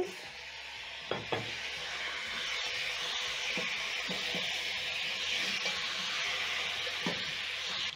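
Beef and raw potato chunks sizzling steadily in hot oil in a pot, with a wooden spatula stirring and scraping through them and a couple of light knocks.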